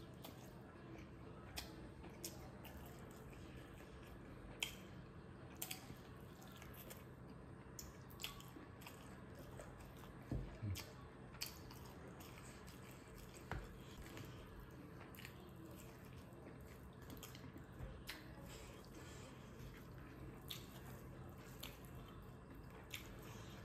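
Faint close-up chewing of smoked pork and rice: scattered soft wet clicks and smacks from the mouth, louder for a moment around the middle, over a low steady hum.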